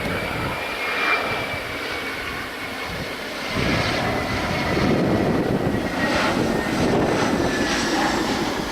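Jet airliner's engines passing, a broad rushing rumble with a high whine that slowly falls in pitch, growing louder about three and a half seconds in.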